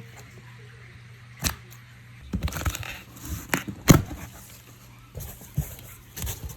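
Handling noise: a series of sharp knocks and clicks, the loudest a little before the four-second mark, over a steady low hum.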